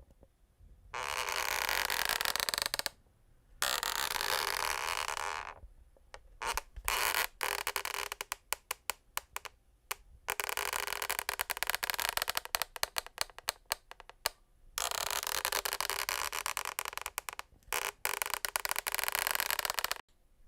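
Rubbing and scraping on a wooden parquet floor: several long strokes of a second or two with short pauses between them, and stretches of quick, choppy scraping in between.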